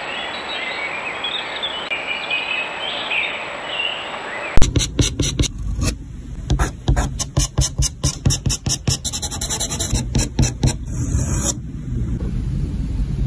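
Outdoor ambience with faint bird chirps. About four and a half seconds in it gives way to a louder, rapid run of scratching and scraping clicks over a low rumble.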